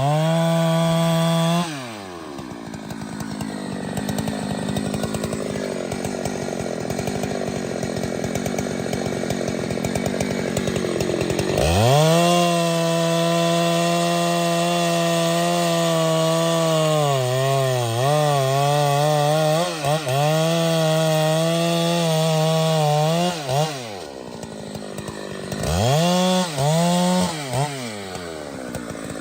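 Two-stroke chainsaw revving at full throttle, dropping to idle about two seconds in, then revving up again around twelve seconds and holding high with its pitch sagging several times under load, as when the chain bites into a tree trunk. It drops back to idle and ends with a few short throttle blips.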